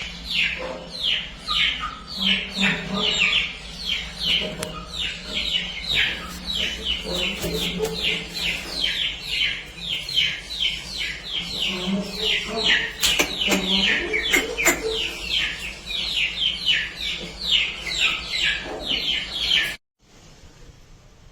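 Many small birds chirping rapidly and without pause, with short falling peeps overlapping several a second and a few lower calls underneath. The sound cuts off abruptly near the end.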